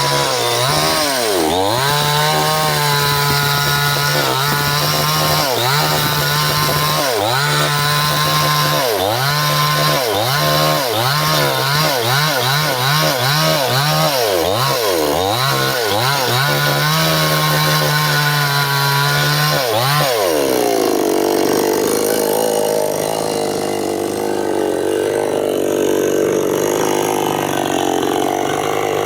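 Stihl two-stroke chainsaw cutting through a bendo log, running at high speed and repeatedly dipping and picking back up, with a quick run of dips midway. For the last several seconds it runs lower and rougher.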